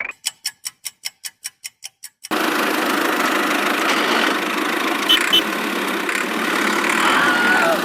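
Rapid even ticking, about five clicks a second, for about two seconds, then a small machine's motor starts and runs steadily and loudly.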